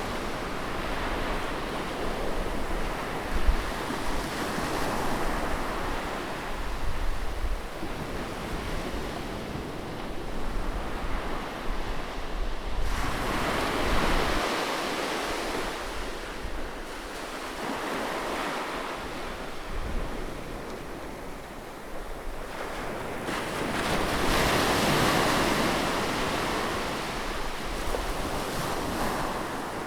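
Ocean waves breaking and washing on a shore, the surf swelling and easing every several seconds, with wind buffeting the microphone.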